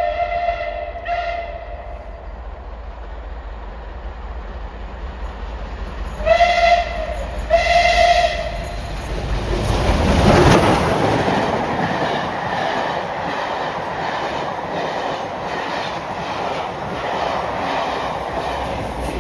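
Merchant Navy class 35028 Clan Line's steam whistle: a long blast ending about a second in, then two short blasts around six and eight seconds in. The train then passes at speed, its noise peaking about ten seconds in, with the wheels clattering rhythmically over the rail joints as it goes by.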